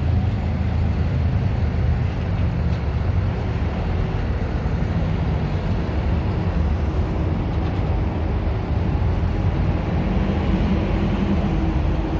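Road traffic passing along a city street: a steady, low rumble of car engines and tyres.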